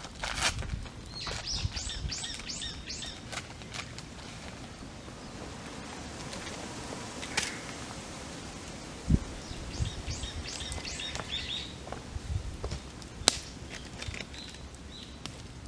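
Birds singing two phrases of quick repeated high notes, one about a second in and another about ten seconds in, over a wood campfire crackling. The fire gives scattered sharp pops and a low thump a little after the middle.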